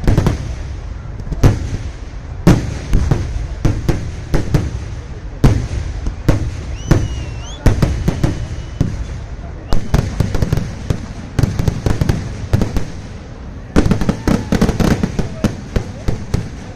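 Festival fireworks display (vedikkettu): a rapid, irregular string of loud bangs and cracks that thickens into a dense barrage near the end.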